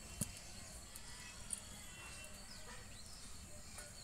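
Faint outdoor ambience with a few soft bird chirps about two and a half to three seconds in, and two light clicks, one just after the start and one about a second and a half in.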